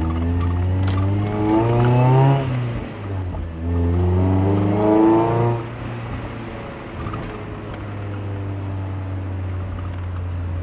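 Mazda Miata NB's four-cylinder engine and exhaust accelerating through two gears, climbing in pitch each time and dropping sharply at each upshift about two and a half and five and a half seconds in. It then settles into a steady lower drone while cruising.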